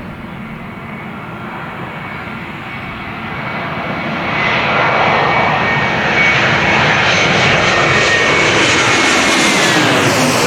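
Jet airliner passing low overhead, its engine noise swelling to very loud about four seconds in, with a high whine that drops in pitch near the end as it goes past.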